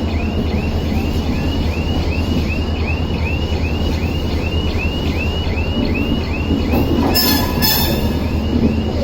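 Train noise: a steady low rumble, with an electronic chirp repeating about two and a half times a second, and a short loud blast about seven seconds in.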